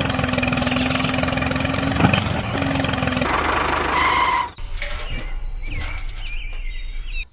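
A small motor running steadily with a continuous hum, which cuts off suddenly about four and a half seconds in and gives way to quieter, scattered sounds.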